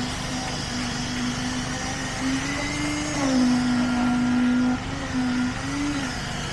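An engine of construction machinery running with a steady drone that shifts in pitch, rising and falling a few times and growing louder for a second or two midway.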